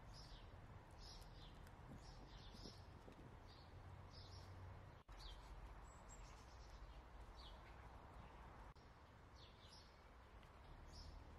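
Faint bird chirps: short, slightly falling notes repeating irregularly every half second to a second, over a low steady background hum.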